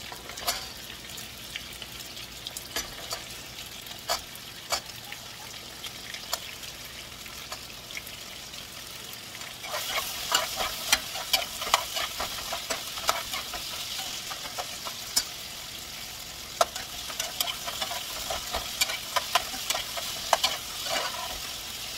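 Chopped tomatoes, okra and sausage sizzling in hot oil in a stainless steel pot, with a spoon clicking and scraping against the pot as the mixture is stirred. About ten seconds in the sizzling grows louder and the clicks come more often.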